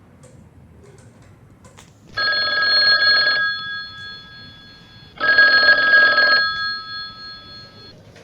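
Telephone ringing twice, each ring about a second long with its tone lingering afterwards: an incoming call.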